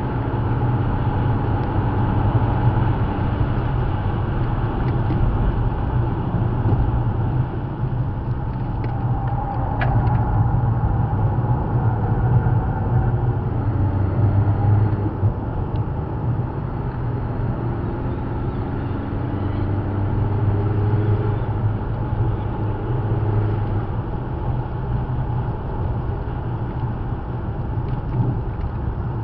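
Car engine and tyre noise heard inside the cabin while driving at speed, the engine note rising and falling with throttle and gear changes.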